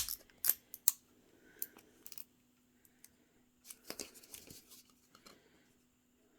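Small blind-box packaging being opened by hand: a string of short, sharp snips and clicks with crinkling, the first the loudest.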